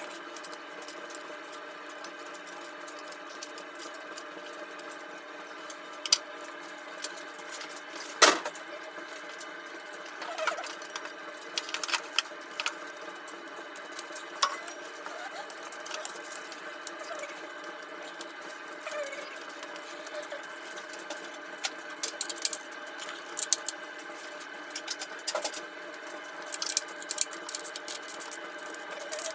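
A steady hum runs throughout, with scattered clicks, knocks and clinks of tools and metal parts being handled. The sharpest knock comes about a third of the way in.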